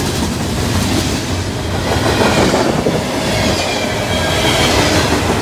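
Freight cars, tank cars and covered hoppers, rolling past: a steady, loud rumble of steel wheels on the rails with clacking over the rail joints and a faint, thin wheel squeal midway and near the end.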